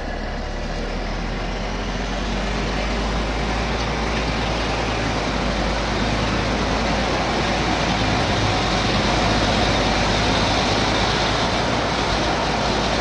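Steady vehicle noise: a heavy engine with a rushing wash of road or wind noise, growing a little louder over the first several seconds.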